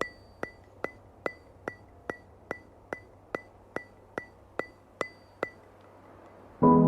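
Sharp, evenly spaced ticks with a short ringing pitch, about two and a half a second, stopping about five and a half seconds in. Soft music with held keyboard chords comes in near the end.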